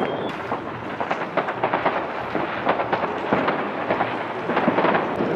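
Consumer fireworks and firecrackers going off all around at once: a dense, continuous crackle of many overlapping bangs and cracks, near and far, with no gap.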